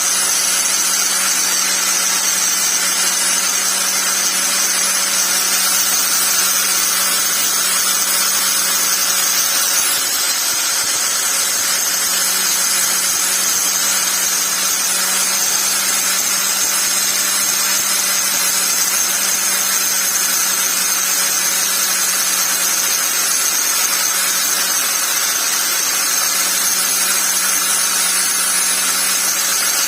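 Angle grinder running steadily without a pause, a constant motor whine over a steady grinding hiss.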